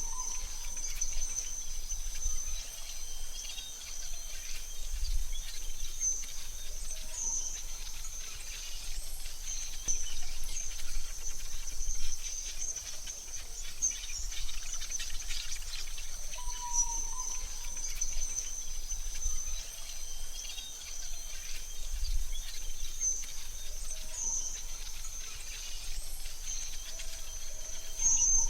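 Forest ambience: a steady, high-pitched insect drone runs throughout. A few short bird whistles come about halfway through and again near the end, with occasional low rumbles underneath.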